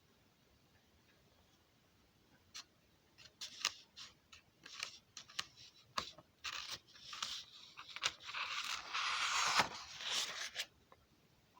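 Handling noise: scattered clicks and short scrapes starting a couple of seconds in, then a longer stretch of dense rustling and scraping that stops shortly before the end.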